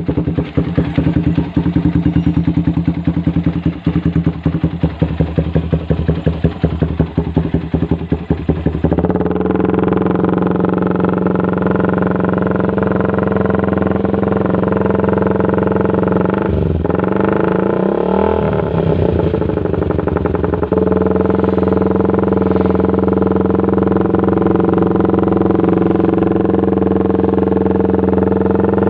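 Motorcycle with an RPL aftermarket exhaust, running loud. For about nine seconds it idles with distinct, choppy exhaust pulses. It then settles into a steady, higher-revving drone, with a brief dip and recovery in revs past the middle and a slight step up after that.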